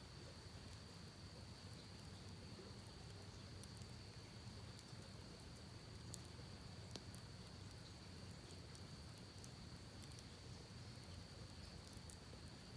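Faint campfire crackle: sparse small wood pops and ticks, a couple standing out about halfway through, over a low, steady rush from the creek and a thin, steady high tone.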